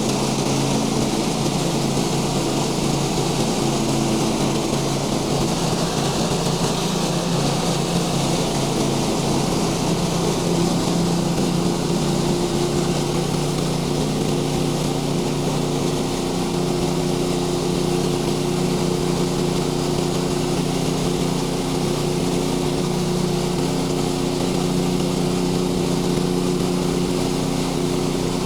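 Small gasoline engine of a Woodland Mills manual bandsaw sawmill running steadily at a constant speed, with a steady hiss over it.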